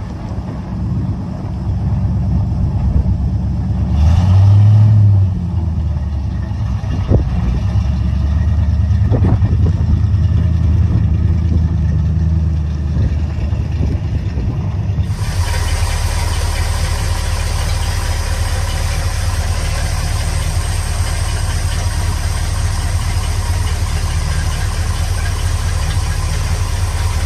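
1970 Chevrolet C50 truck's 350 V8 gasoline engine running at idle, briefly louder about four seconds in. After about fifteen seconds the sound turns harsher and noisier.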